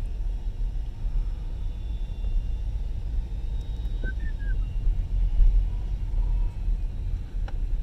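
Low steady rumble of a car driving, heard from inside the cabin, with a few faint short chirps about four seconds in.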